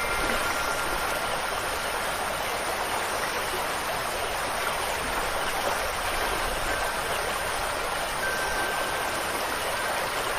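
Steady rushing water, like rain and a flowing stream, at an even level. Now and then faint, long-held ringing tones of wind chimes sound through it.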